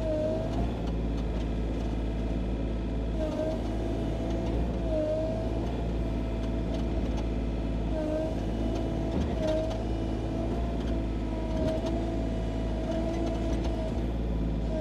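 Sany SY35U mini excavator's diesel engine running steadily, with a tone that keeps up throughout and dips briefly in pitch several times.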